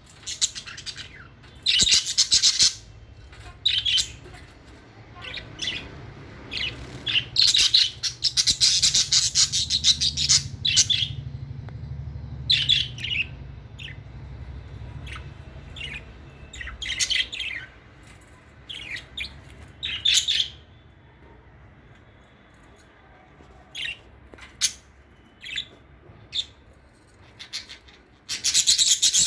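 Budgerigars chirping in quick bursts of rapid high twittering, with short pauses between bursts. A faint low hum runs underneath for much of the time.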